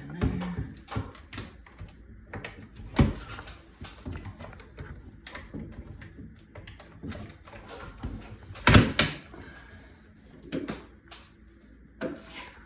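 Irregular clicks, taps and knocks of an exhaust fan housing and its parts being handled and fitted into a ceiling opening, with a loud knock about three seconds in and a cluster of louder knocks near nine seconds.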